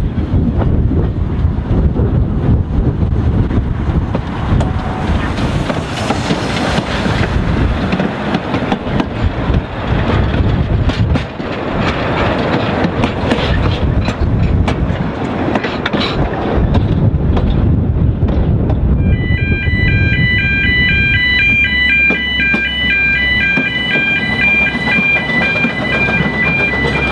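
A narrow-gauge train running on the track, a steady rumble with scattered wheel clicks. About two-thirds of the way in, music with a repeating run of short notes comes in over it.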